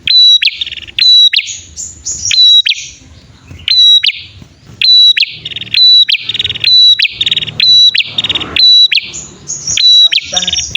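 Male and female prenjak (prinias) calling. Sharp, high, clipped notes repeat about twice a second, with fast rattling trills in between.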